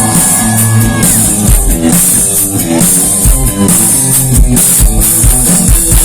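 Live rock band playing an instrumental passage: a drum kit keeps a steady driving beat under bass and guitar, with no singing.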